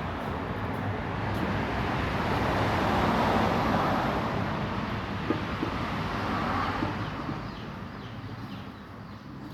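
A passing vehicle: a steady rushing noise that swells to its loudest about three seconds in, then slowly fades away.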